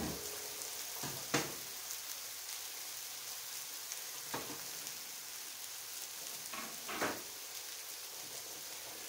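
Beef and bacon patties sizzling in a non-stick electric frying pan: a steady hiss broken by a few sharp pops.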